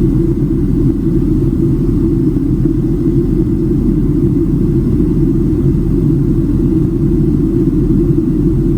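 Steady low rumble of airliner cabin noise aboard a Boeing 767-300ER, with no change in level or pitch.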